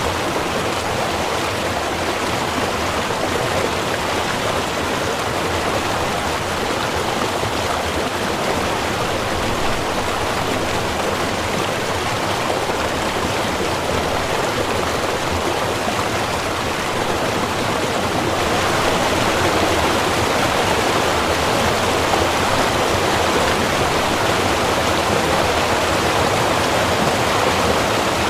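Water of a small river or stream running steadily with an even rushing sound; it gets a little louder about two-thirds of the way through.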